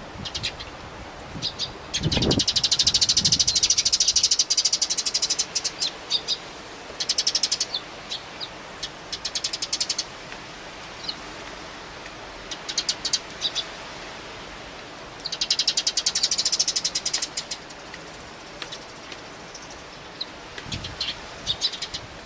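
Eurasian tree sparrows chirping, with scattered single chirps and two long runs of rapid chattering calls, one about two seconds in and one about fifteen seconds in. Wind noise runs underneath, with a low rumble of a gust on the microphone at the start of the first run.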